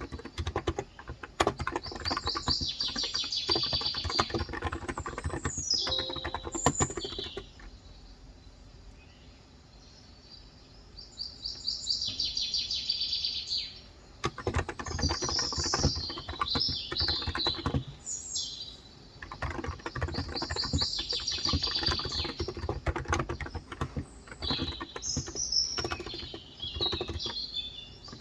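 Typing on a Cox Endeavor tenkeyless electrostatic capacitive keyboard with 35 g switches: fast runs of key clicks with a pause of a few seconds about a third of the way in. Birds chirp in short trills over it again and again.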